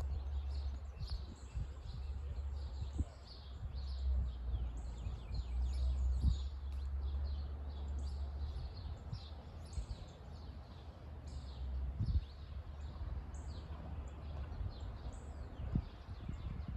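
Wind buffeting the microphone in a steady low rumble, with many small birds chirping throughout and a few brief bumps.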